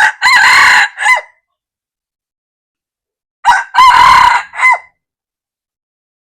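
Red junglefowl rooster crowing twice, about three and a half seconds apart. Each crow is short: a brief first note, a longer held middle and a clipped final note.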